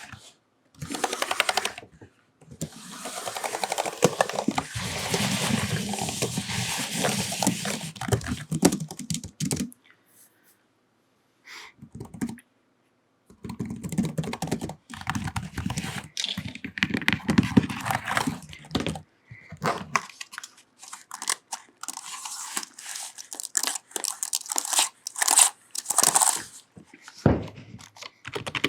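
Long fingernails rubbing, scratching and tapping on a computer keyboard: a long stretch of steady scratchy rubbing early on, a pause of a few seconds, then quick irregular clicks and scrapes on the keys.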